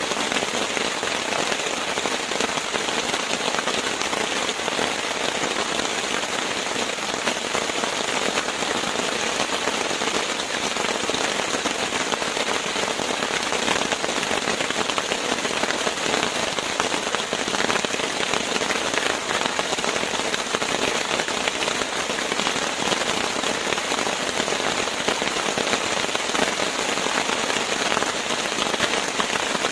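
Steady rain falling on a surface: a dense, even hiss of many small drops that holds unchanged throughout.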